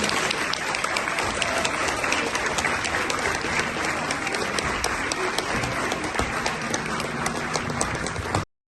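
Theatre audience applauding steadily; the recording cuts off abruptly near the end.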